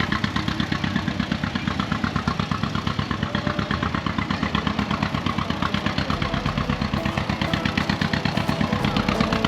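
An old engine running steadily at a slow, even speed, its firing beats coming fast and regular.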